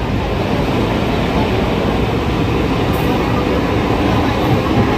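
A Mumbai suburban local electric train running on the rails, heard from on board as a steady, even noise.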